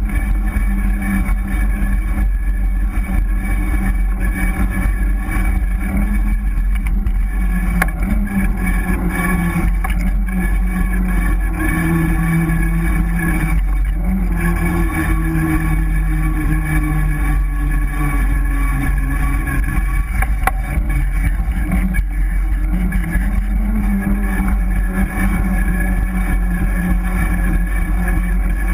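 Mountain bike disc brake rotor rubbing on the pads as the bike rolls, a continuous droning whine that sinks in pitch and comes back up as the wheel slows and speeds up, over a steady low rumble.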